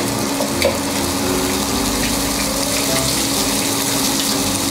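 Sardine fillets frying in oil in a frying pan, a steady sizzle as they are fried slowly to crisp them. A steady low hum runs underneath.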